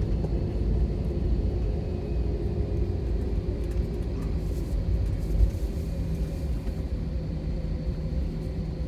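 Steady low rumble inside the cabin of an Airbus A321 rolling on the ground after landing, easing off slightly, with a single brief bump about halfway through.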